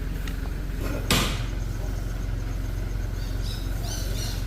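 An engine idling steadily. A single sharp knock comes about a second in, and a few brief high squeaks come near the end.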